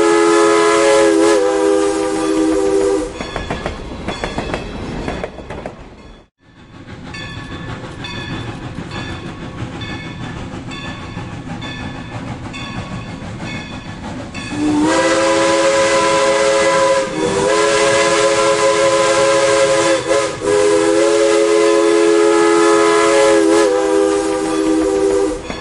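Steam locomotive's chime whistle sounding a several-note chord: one blast that stops about three seconds in, then, some eleven seconds later, a run of long blasts with short breaks between them. In between, the train runs past with a steady clickety-clack of wheels over rail joints, and the sound briefly drops out about six seconds in.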